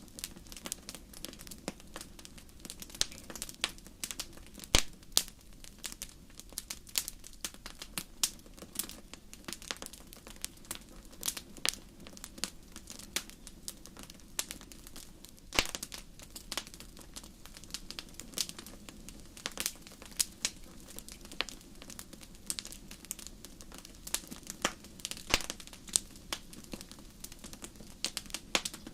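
Wood fire crackling in a fireplace: irregular sharp pops and snaps, several a second, over a faint steady low rumble.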